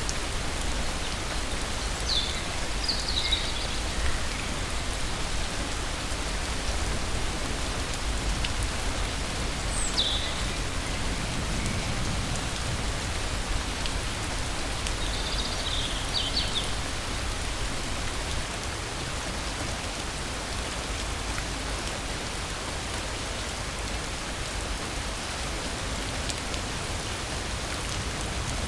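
Steady rain falling. A few short, high bird calls sound over it: about two seconds in, once near ten seconds, and again around fifteen seconds.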